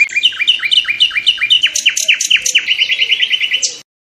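A songbird singing one fast phrase: rapid repeated notes, then a run of sweeping notes and a quick trill, which cuts off abruptly near the end.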